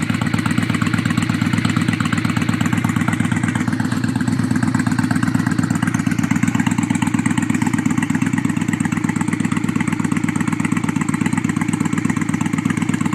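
2004 Honda Shadow VLX VT600 V-twin idling steadily through Cobra exhaust pipes, which are nearly straight pipes with baffles, giving an uneven, pulsing idle. The engine is a little cold-blooded.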